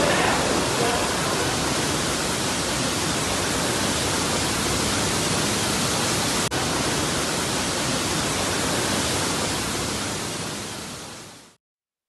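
Steady loud rush of rainwater pouring in through a broken roof in heavy rain. It breaks off for an instant about six and a half seconds in, then fades away near the end.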